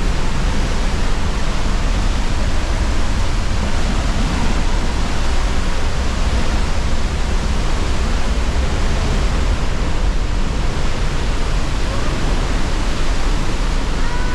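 Steady, loud rush of water from a large waterfall, an even unbroken noise heavy in the low end.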